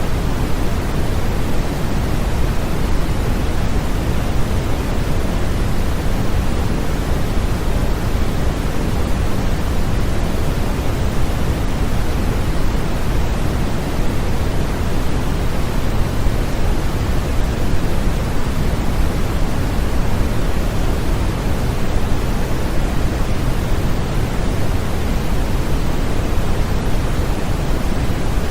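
Steady, continuous synthetic noise of the pink kind, heavier in the low end and softer in the highs, used as a baby sleep aid; unchanging throughout with no other sounds.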